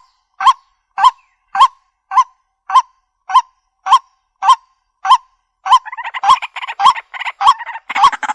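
White-breasted waterhen calling: a short, hooked note repeated evenly almost twice a second. About two-thirds of the way in, a rougher chattering joins in between the notes.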